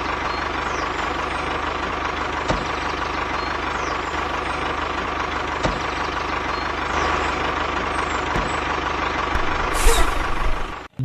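Tractor engine running steadily, with faint ticks every few seconds. It swells briefly near the end and then cuts off abruptly.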